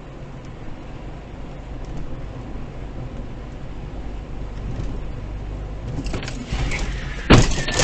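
Car driving with a steady low road rumble, then a sudden loud impact near the end: a vehicle collision, with breaking and clinking carrying on afterwards.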